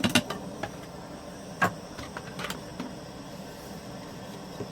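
Coffee grinder being handled just after grinding: a rattling run of clicks stops right at the start, then a single sharp knock and a few light clicks follow over a steady low background noise.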